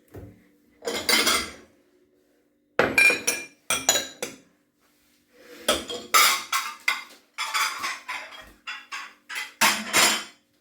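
Dishes clattering and clinking as plates, bowls and cups are lifted out of a dishwasher's bottom rack and stacked, in several separate bursts with short pauses between.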